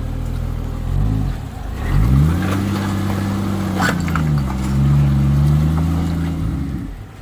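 Barra-swapped Nissan Patrol GU's Ford straight-six engine revving under load as the four-wheel drive climbs a muddy rock step. The revs climb a second in and again at two seconds, hold, dip and rise once more, then drop away near the end.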